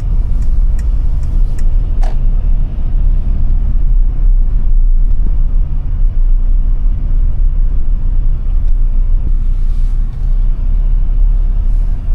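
Timber truck's engine and tyres making a steady low rumble while driving, with a few light ticks in the first couple of seconds.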